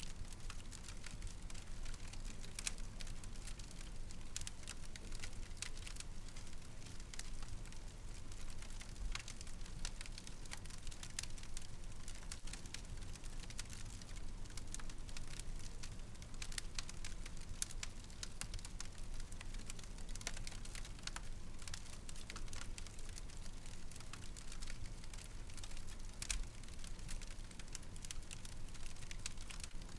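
Fireplace fire crackling: irregular sharp pops and crackles over a steady low rumble.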